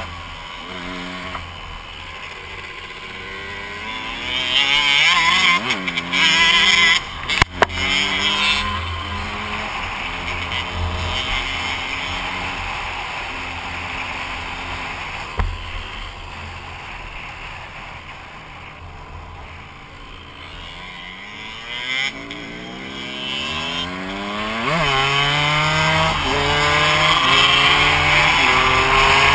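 KTM dirt bike engine revving up and easing off through the gears, its pitch climbing and dropping again and again. There are a couple of sharp knocks about seven seconds in.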